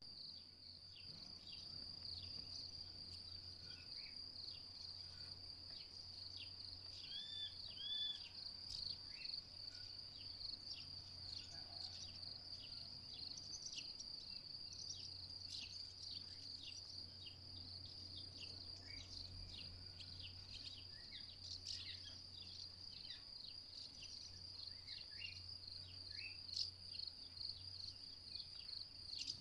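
House martins calling in short, scattered chirps over a continuous faint, steady high-pitched tone.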